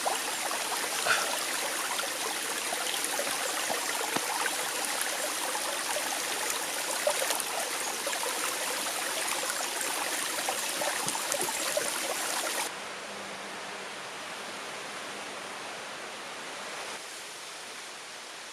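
Running water, like a forest stream, a steady rush full of small splashes. About two-thirds of the way through it cuts suddenly to a quieter, smoother hiss.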